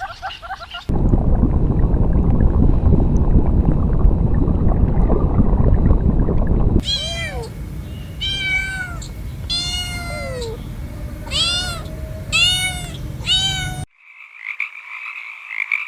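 A loud low rushing noise for about six seconds, then a cat meowing six times, each meow rising and falling in pitch. Near the end a frog starts croaking.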